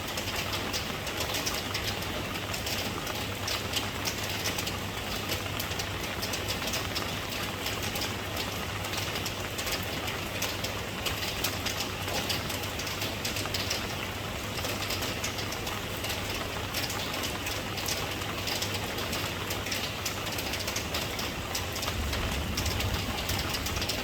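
Steady rain: an even hiss with many fine drop ticks over a constant low rumble, which swells near the end.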